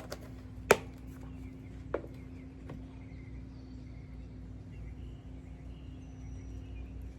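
Quiet outdoor background with a steady low hum and faint distant bird chirps, broken by a sharp click about a second in and a lighter one near two seconds.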